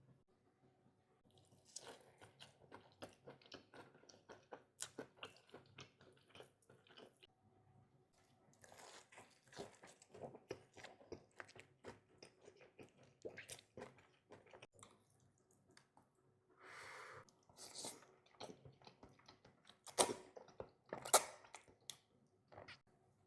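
Close-miked chewing and crunching of food, a dense run of small wet clicks and crackles, with a few louder crunches near the end.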